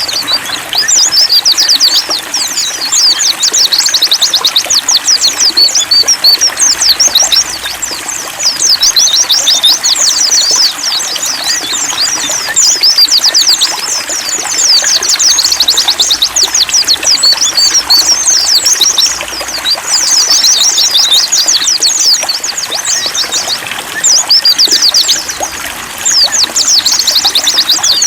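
White-eyes (pleci) singing rapid, high, chattering phrases a few seconds long with short pauses between them, over a steady trickle of running water.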